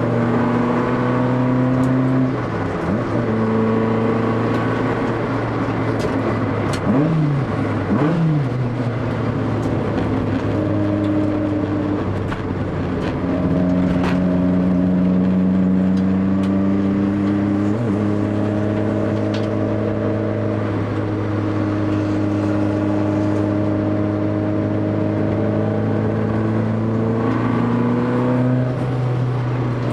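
Honda Civic EF3's ZC 1.6-litre twin-cam four-cylinder on Solex 44 sidedraft carburettors running hard on track, the engine note held high for long stretches and dipping and climbing again several times with lifts and gear changes.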